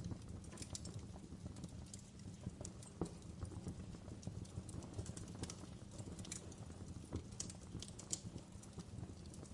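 Wood fire crackling in a fireplace: irregular sharp pops and snaps over a steady low rumble of the flames, with a louder pop about three seconds in.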